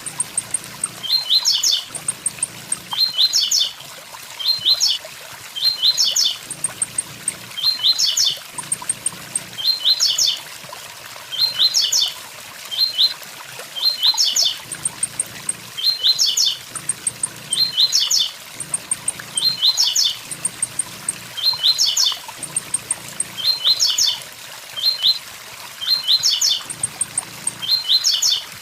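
Blue-black grassquit (tiziu) singing its 'tui tui zel zel' song: a short, rapid phrase of sharp high notes repeated about every one and a half seconds, over the steady rush of a waterfall.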